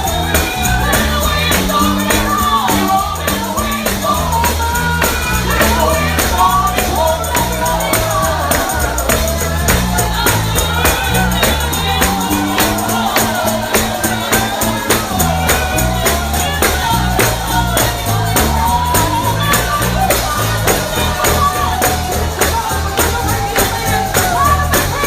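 Live gospel music: a tambourine shaken and struck in a quick, steady beat over singing, with a bass line underneath.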